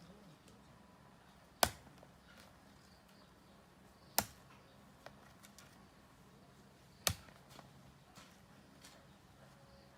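Three sharp knocks, each a single strike, about two and a half to three seconds apart, with fainter clicks between them over a faint steady hum.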